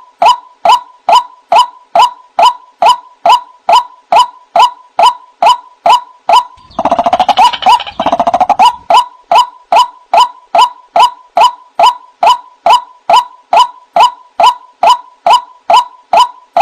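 White-breasted waterhen (ruak-ruak) repeating its call: a steady run of short, hooked notes about two to three per second, with a rougher, louder burst of calling about seven seconds in.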